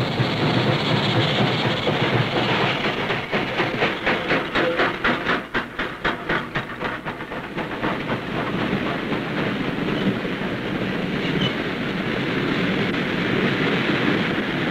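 Norfolk & Western steam-hauled coal train passing close by, its hopper cars rolling past. In the middle the wheels click over the rail joints in a quick, regular clickety-clack, which then settles into a steady rumble.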